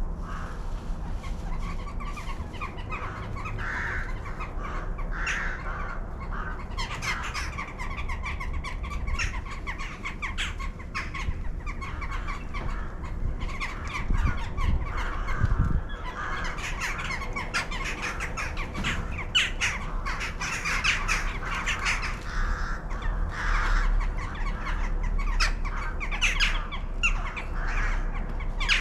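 A flock of birds calling over one another, many short calls overlapping without a break, over a low steady rumble.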